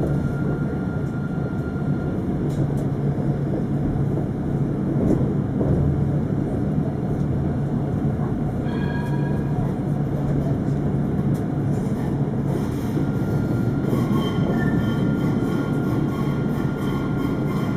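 Alstom Citadis 402 tram running, a steady rolling rumble with a low hum throughout. A brief cluster of high tones sounds about halfway through, and a steady high-pitched whine comes in about two-thirds of the way through.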